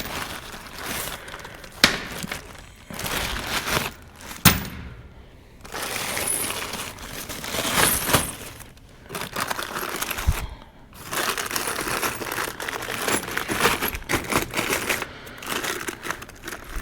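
Rummaging through loose bolts and nuts: small metal parts clinking and rattling in irregular clicks and knocks, with rustling and scraping in between.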